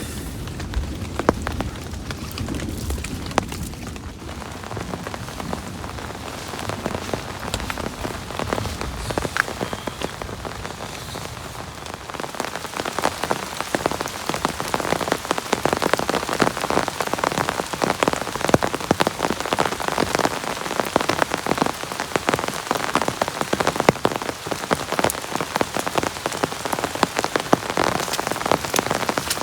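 Heavy rain falling on a surface, a dense spatter of individual drops that gets heavier and louder about halfway through.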